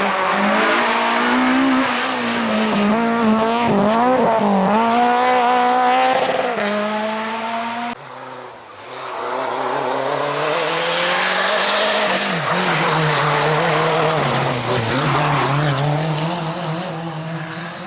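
Rally car engines revved hard through a stage, pitch rising and falling with throttle and gear changes, with tyre squeal. The sound cuts off abruptly about eight seconds in and a second car's engine run builds up again.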